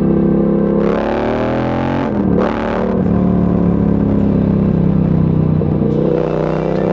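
Yamaha MT-07 parallel-twin engine pulling under throttle on the road. It revs up, cuts off briefly about two seconds in for an upshift and drops in pitch, then runs steady before picking up again near the end.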